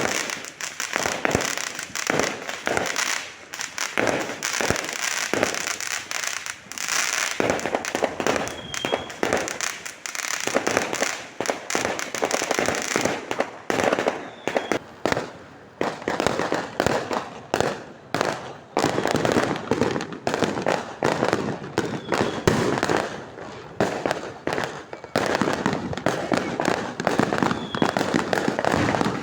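Fireworks going off in a dense, unbroken barrage of sharp cracks and bangs.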